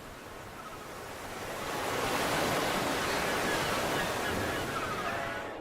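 Ocean surf: a wave washes in, swelling about a second and a half in and easing off near the end.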